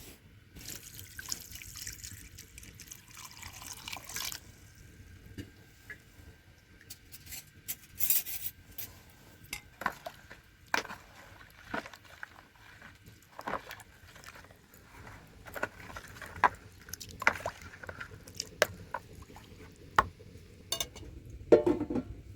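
Water being poured for about four seconds, then a run of scattered light clicks and knocks, like things being handled and set down.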